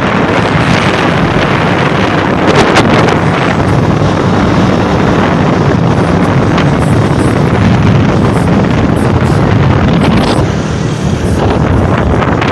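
Heavy wind buffeting a phone's microphone on a moving motorcycle, with the motorcycle's engine running low underneath. The rush eases briefly near the end.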